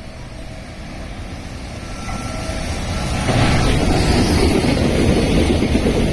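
Freight train hauled by an EF210 electric locomotive running through a station without stopping: its rumble grows steadily, then turns loud about three seconds in as the train comes close.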